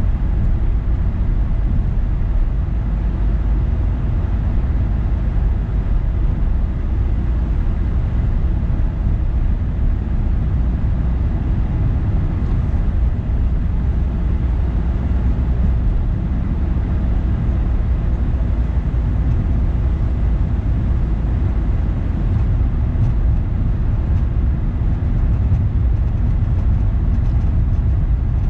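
Car driving: a steady low rumble of tyres and engine on the road, with no distinct events.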